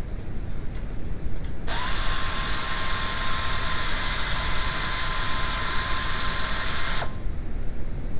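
A power tool runs steadily for about five seconds with a thin, even whine, starting a couple of seconds in and cutting off suddenly.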